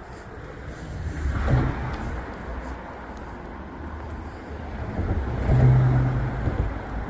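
RC rock crawler's electric motor and drivetrain running in short throttle pulls over a low rumble. A brief pull comes about a second and a half in, and a steadier, louder hum lasts about a second near the end.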